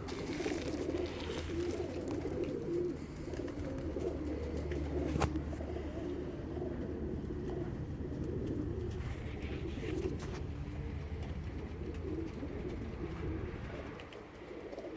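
Racing pigeons cooing continuously, several birds' calls overlapping, over a steady low hum that fades near the end.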